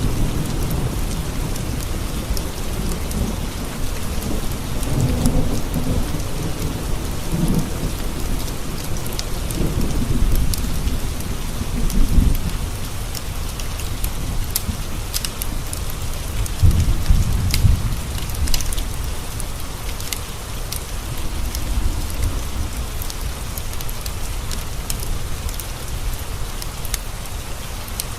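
Steady rain pattering on window glass, with thunder rolling low through the first half and rumbling again about two-thirds in. Scattered sharp crackles of a wood fire sound over the rain.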